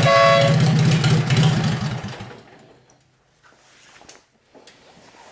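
Worn-out Kohler KT17 twin-cylinder garden tractor engine running steadily, then shut off about two seconds in and winding down to a stop. A few faint clicks follow. The engine is worn out and needs a rebuild.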